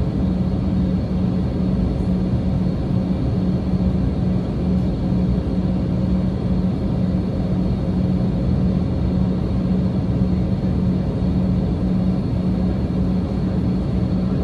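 Steady cabin noise of an Embraer E190 jet heard from a seat inside the cabin: an even rumble with a constant low hum.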